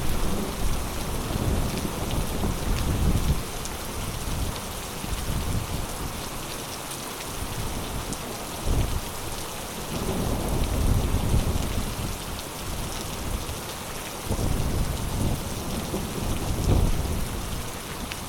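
Heavy rain pouring steadily. Low rumbles swell and fade several times underneath it.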